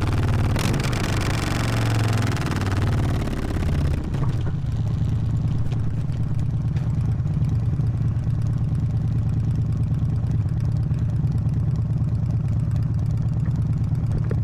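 Harley-Davidson V-twin with a loud exhaust, running under way with wind noise and a shifting engine note. About four seconds in the wind noise falls away and the engine settles to a steady low note.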